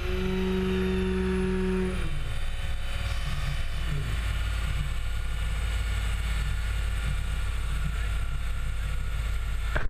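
Vortech-supercharged Nissan 350Z V6 running on a chassis dyno: a steady engine note holds for about two seconds and then drops away, while a high supercharger whine slowly falls in pitch. The engine and rollers then run on with a steady low rumble.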